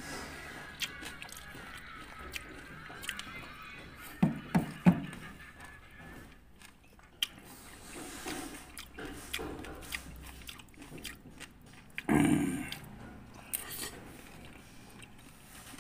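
Close-miked chewing and biting of mixed fruit pieces, with a metal fork clicking and scraping against an earthenware dish. A few louder bites come about four to five seconds in, and another around twelve seconds in.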